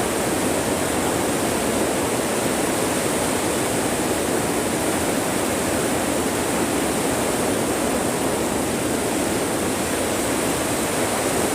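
Heavy rain drumming steadily on the plastic roof of a greenhouse high tunnel, an even, loud hiss with water running off the sides.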